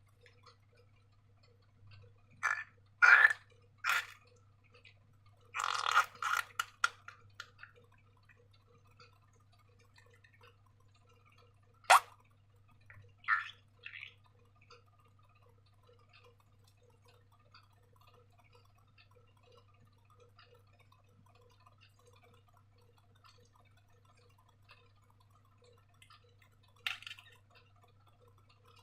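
Slime being worked by hand, giving short wet, sticky squelches and clicks in scattered clusters, with one sharp click about twelve seconds in. A low steady hum and faint regular ticking run underneath.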